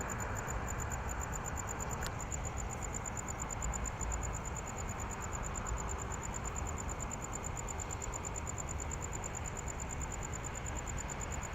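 Steady distant outdoor rumble with a fast, evenly pulsing high-pitched trill over it, like a cricket or similar insect.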